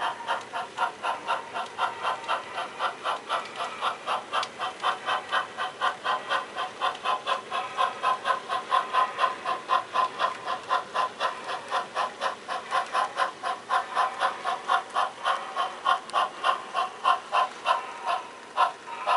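HO scale model steam locomotive's sound unit chuffing in a steady rhythm, about four chuffs a second, as the engine works a switching move.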